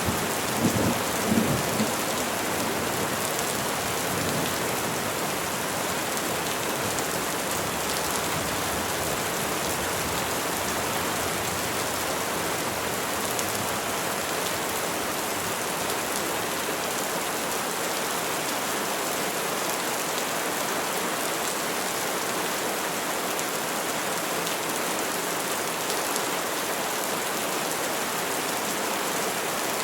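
Steady, dense rain falling on trees, an even hiss of countless drops. A low rumbling sounds in the first couple of seconds and then fades out.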